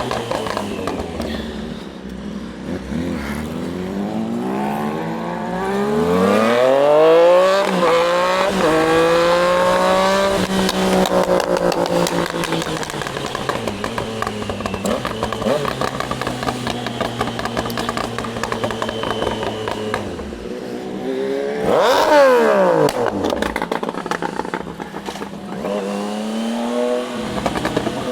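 Triumph Daytona 660's three-cylinder engine under way, accelerating with rising revs from about four seconds in and running steadily at speed. Around twenty seconds in it eases off, gives a quick rev that rises and falls about two seconds later, then picks up speed again near the end.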